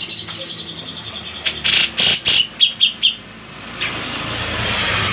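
Songbird calling: a fast trill, then a run of loud sharp notes and a few short chirps. In the second half a broad rushing noise swells up and holds.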